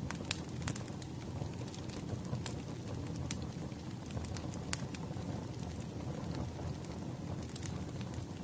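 Wood fire crackling, with a steady low rumble and irregular sharp pops and snaps of burning firewood.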